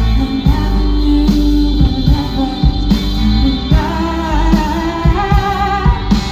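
A live rock band playing loud amplified music: regular drum hits over a steady bass, with guitar, and a melodic line that rises into a higher register about four seconds in.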